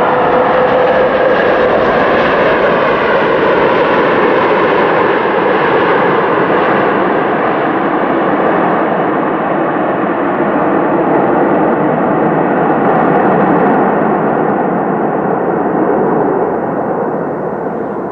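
Jet aircraft engines on landing approach: a loud, steady jet roar with ringing whine tones that slowly fall in pitch, easing off slightly near the end before stopping suddenly.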